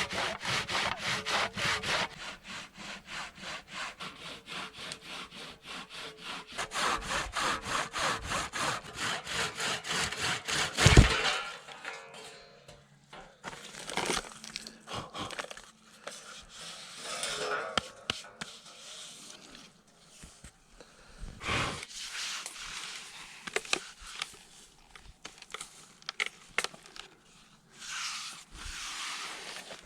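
Hand saw cutting through a hard old bog-oak log in quick, even back-and-forth strokes. About eleven seconds in there is one loud sharp crack, followed by quieter scattered scraping and knocking of wood.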